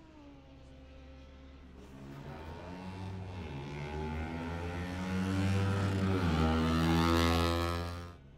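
A racing car's engine accelerating hard, its pitch and loudness climbing, dropping once at a gear change about six seconds in, then climbing again before the sound cuts off suddenly near the end.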